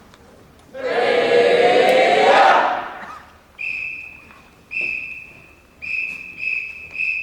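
Marching band members shouting together in one long yell that rises in pitch, then a drum major's whistle blowing six blasts, two longer ones followed by four quicker ones, counting the band in.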